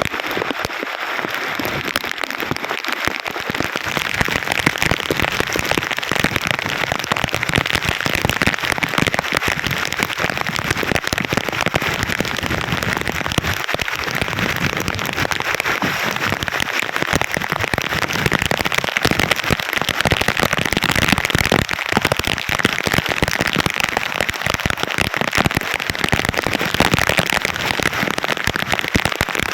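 Heavy rain pouring down: a dense, steady patter of countless drops with a crackly edge, loud and even throughout.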